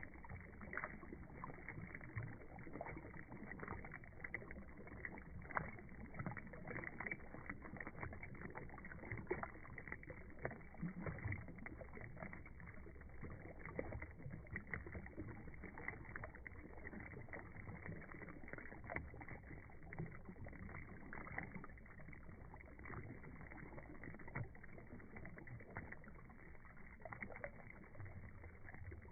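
Water from a beehive fountain burbling and splashing: a steady wash with many small irregular splashes.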